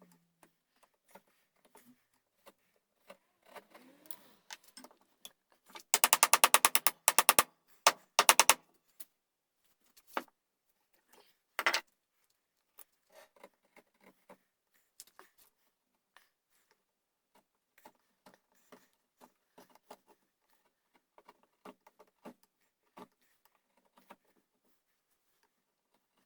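Hand tools working a wooden gunstock: scattered light clicks and scrapes. About six seconds in comes a burst of fast, rattling strokes lasting a second or two, then a shorter one, and another brief one a few seconds later.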